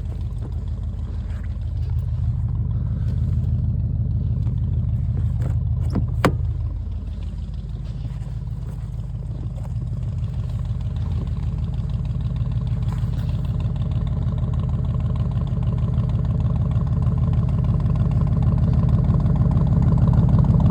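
Chevy Silverado pickup engine idling steadily after a cold start in the snow, growing slowly louder in the second half. A single sharp knock about six seconds in.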